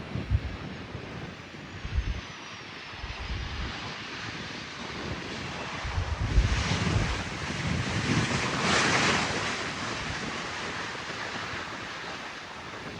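Wind buffeting the microphone in gusts while a landing airliner passes, its rushing sound swelling to loudest about two-thirds of the way through and then fading slowly. A faint falling whine is heard in the first few seconds.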